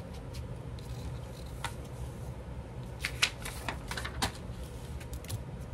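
Paper and craft supplies handled on a table: scattered light rustles and sharp taps, a few close together about three to four seconds in, over a steady low hum.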